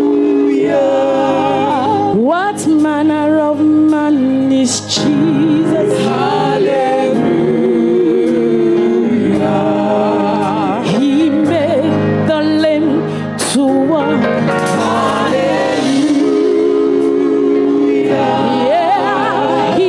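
Gospel worship music: singing in long held, wavering notes that glide between pitches, over steady instrumental accompaniment.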